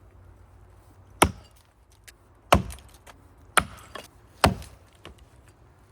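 Axe chopping into the trunk of a big maple tree: four heavy blows about a second apart, with a few lighter ticks between them.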